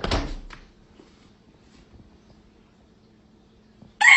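A brief loud rush of noise, then near quiet with a faint hum, until a rooster starts crowing loudly right at the end.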